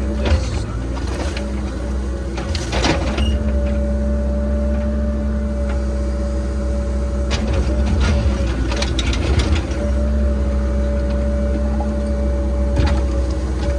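Cat 306 mini excavator running under load, its diesel engine rumbling steadily under a steady hydraulic whine. A few sharp knocks and scrapes from the digging come about three seconds in, in a cluster around eight to nine seconds, and again near the end.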